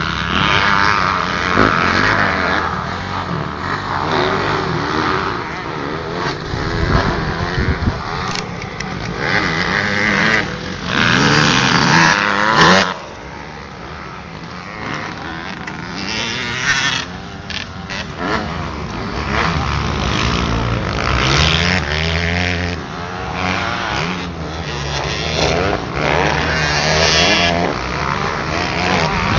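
Motocross dirt bikes running around the track, engines revving up and down as they pass. The loudest stretch ends with a sudden drop about halfway through.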